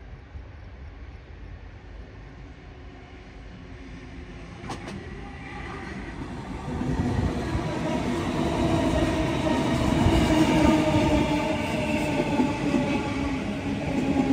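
A train approaching and running past, growing steadily louder from about six seconds in and staying loud, with a steady hum over the rumble of wheels on rails.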